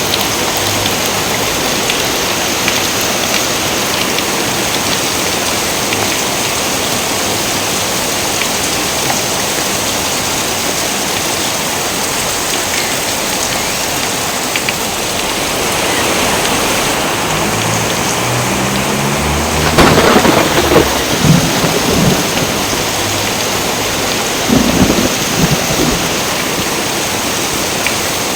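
Steady rain falling, with a thunderclap about two-thirds of the way through: a low rumble builds, breaks into a sharp loud crack, then rolls on in a few more rumbles.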